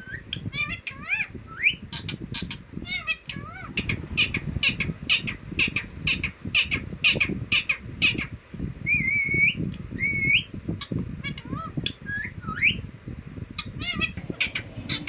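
Green parrot calling: a rapid run of short, shrill squawks and chirps, with a few longer whistles that rise and fall in pitch about two thirds of the way through.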